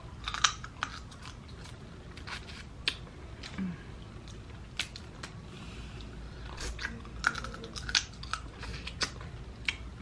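A person eating Dungeness crab: chewing and smacking, with irregular sharp clicks and crackles of shell.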